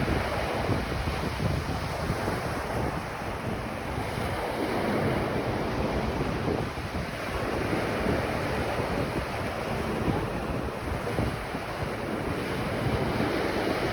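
Ocean surf breaking and washing up a beach in slow swells, with wind buffeting the microphone.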